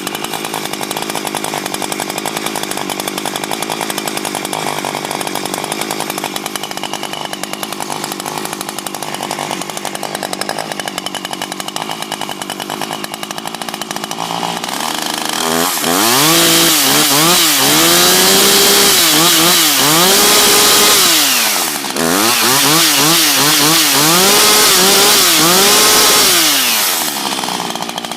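Husqvarna 359's 59cc two-stroke chainsaw engine running at low speed for about half the time, then at full throttle for about ten seconds with its pitch swinging up and down, briefly dipping once. It drops back to low speed near the end.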